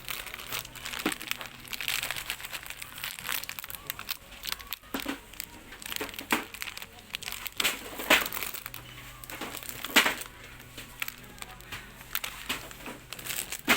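Plastic packaging crinkling and rustling as it is handled, with irregular crackles and a few sharper crackles about eight and ten seconds in.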